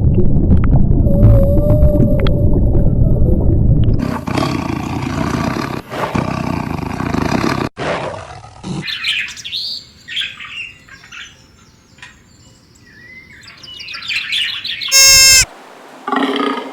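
A run of different animal calls one after another: a loud, low roar for the first few seconds, then rougher calls, then quieter bird chirps, and a short, loud, high-pitched call near the end.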